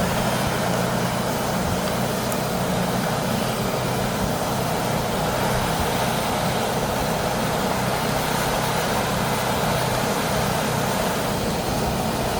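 Steady mechanical drone of workshop machinery: an even rushing noise over a low hum, unchanging throughout with no distinct strikes.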